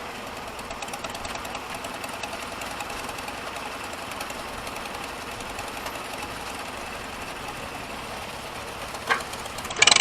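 Tractor engine running steadily at idle, an even rapid ticking. A short sharp knock comes about nine seconds in, and the sound turns suddenly much louder at the very end.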